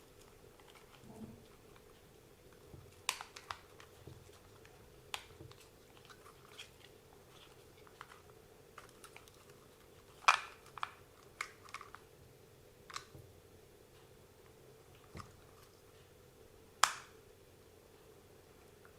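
Scattered small clicks and knocks of plastic and metal RC car parts being handled and pressed together while the WLToys 144001 buggy's rear suspension is reassembled, the sharpest snaps about ten and seventeen seconds in. A faint steady hum runs underneath.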